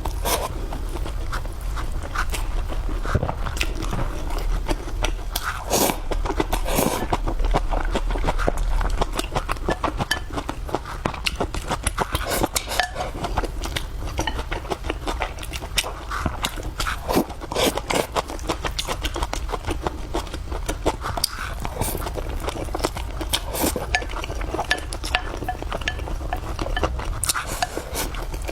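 A person chewing and biting food, with many short crunches and wet mouth clicks throughout.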